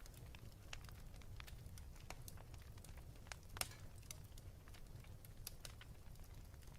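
Wood fire crackling in a fireplace: scattered sharp snaps and pops, one louder pop about halfway through, over a faint low rumble.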